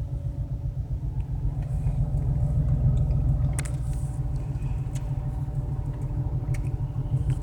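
BMW 335i's turbocharged straight-six idling roughly with a steady low rumble. It is running on five cylinders: the engine management has shut off cylinder 6 after misfires on cylinders 4 and 6.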